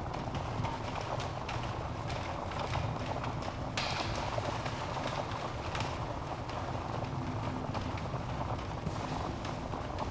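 Wood fire in a fireplace burning with a steady low rumble of flames and frequent sharp crackles and pops from the logs, one louder pop about four seconds in.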